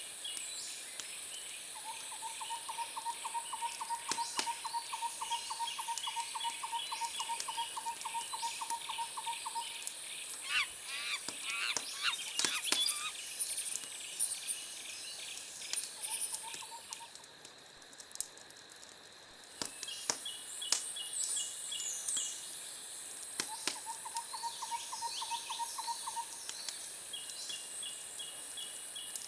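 Birds chirping and calling over a steady high insect hiss, with a pulsing trill that starts and stops several times and a few sharp clicks.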